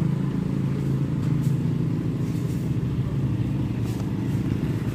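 A motor vehicle running steadily: an even, low engine drone with no change in pitch.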